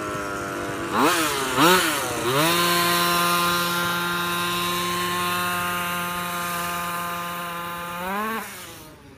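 Small two-stroke engine of a King Motor Baja 5B RC buggy: it revs up sharply twice, then holds a steady high speed for about five seconds, rises once more and fades away near the end.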